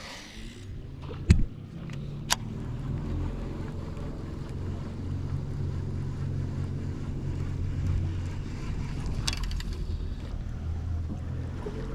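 Boat's electric trolling motor humming steadily, with a thump about a second in and a sharp click shortly after.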